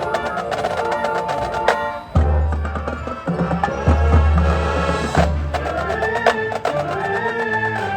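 Marching band playing, with dense percussion: many sharp, clicky strikes over sustained pitched notes and a low bass. The music briefly drops out about two seconds in, then comes back in.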